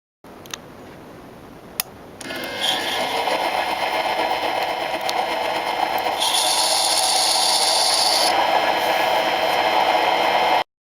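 Homemade 0.75 cc contra-piston model diesel engine: two sharp clicks, then the engine catches about two seconds in and runs fast and steadily. Its sound turns brighter and harsher from about six to eight seconds, and the clip cuts off suddenly near the end.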